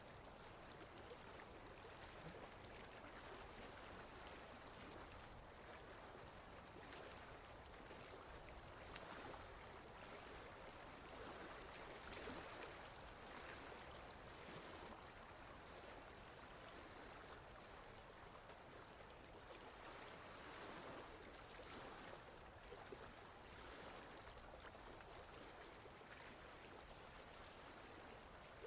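Faint, steady rush of a flowing stream, swelling and easing slightly.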